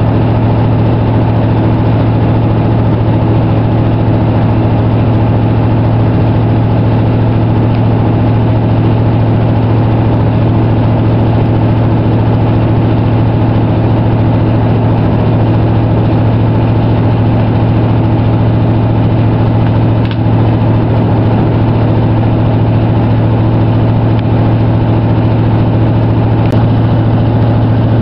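Regional train running at speed, heard from inside the passenger carriage: a loud, steady low hum with the even rumble of the running gear on the track.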